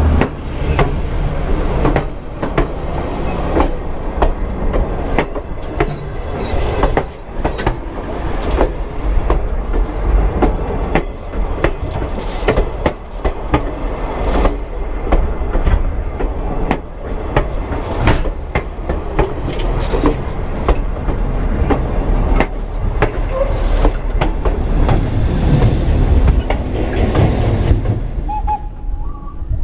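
A passenger train rolling directly over the microphone between the rails: a steady low rumble of wheels on rail with repeated sharp clicks, easing off near the end as the last coach clears.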